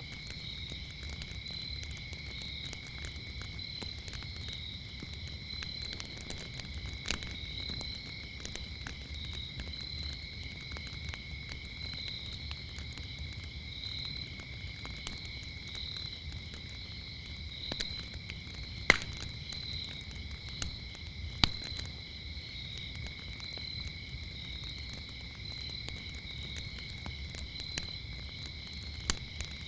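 Wood fire crackling, with scattered snaps and two louder pops about 19 and 21 seconds in, over a low rumble. Crickets chirp in a steady high trill throughout, with a second, higher chirp pulsing on top.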